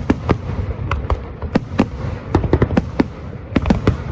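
Aerial firework shells bursting in a rapid, irregular string of sharp bangs, about fifteen in four seconds, over a continuous low rumble.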